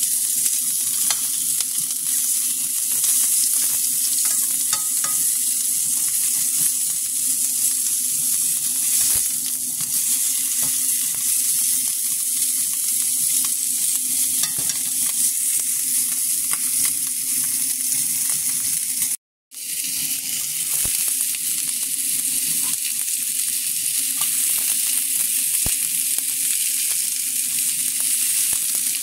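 Oxtail pieces sizzling as they sear in oil in a stainless steel frying pan: a steady frying hiss with small pops, over a low steady hum. The sound cuts out completely for a moment about two-thirds of the way through, then the sizzle resumes.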